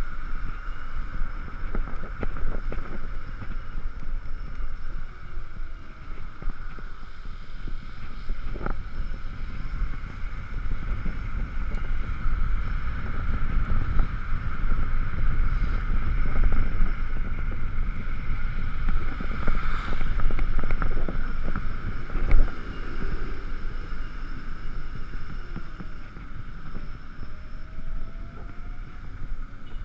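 Wind buffeting the microphone and tyre noise on a wet road while riding an Ekoway ML5000 electric scooter in the rain, with a steady high whine running over the rushing noise.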